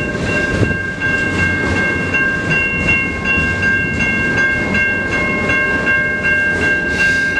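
CN freight train's cars rolling slowly through a road crossing, a steady rumble with wheel clatter over the rails. Over it the crossing's warning bell rings on and on in quick, regular strokes.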